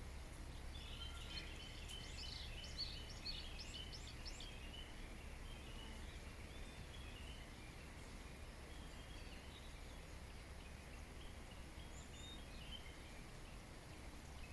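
Small birds chirping and singing: a quick flurry of high notes in the first few seconds, then softer, scattered chirps, over a steady low background rumble.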